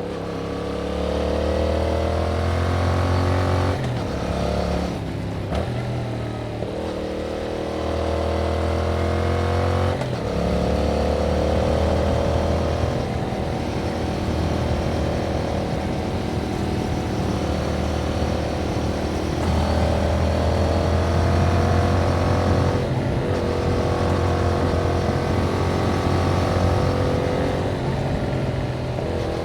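2021 Yamaha MT-07's 689 cc parallel-twin engine running through its original exhaust under way. Its pitch climbs as it pulls, then breaks and drops several times at shifts or throttle lifts.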